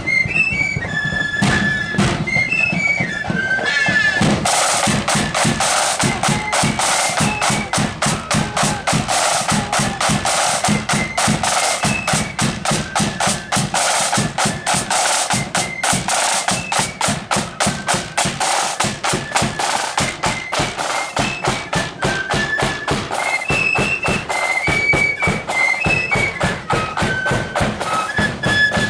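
Marching flute band playing: shrill flutes carry a tune over drums, and rapid snare drumming comes in about four seconds in and keeps going, with the flute melody standing out again near the end.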